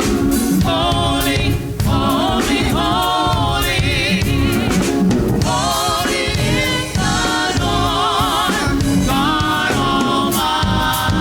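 Church worship team singing a gospel worship song, voices in sung phrases with vibrato over a band with drums.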